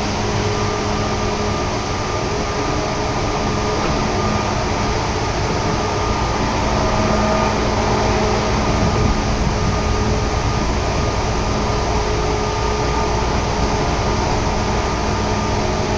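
Meitetsu Tokoname Line commuter train running at speed, heard from inside the carriage: a steady rumble of wheels on rail with a faint steady hum over it.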